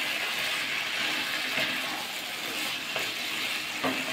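Cauliflower, boiled eggs and masala sizzling in oil in a pan while a flat spatula stirs them, with a few scraping strokes. The masala is being fried down until the oil separates.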